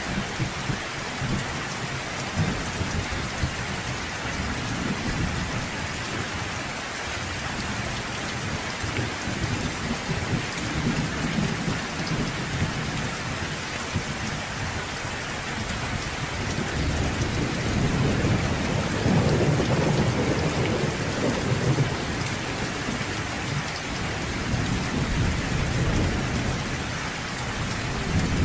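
Steady rain pattering on a surface, with low rolling thunder rumbling underneath that swells to its loudest about two-thirds of the way through.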